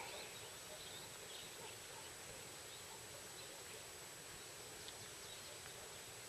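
Faint forest ambience: a steady low hiss with scattered faint bird chirps.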